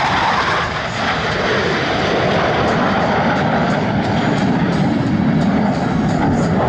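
F/A-18 Super Hornet jet engines roaring as the jets fly past, a loud steady roar whose deeper part grows stronger in the second half.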